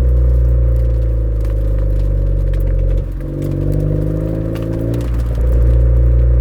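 Suzuki Swift Sport ZC33S's 1.4-litre turbocharged four-cylinder engine sounding through a Fujitsubo aftermarket exhaust while driving. The note falls slowly, turns quieter about three seconds in, and swells again around five seconds before easing off at the end.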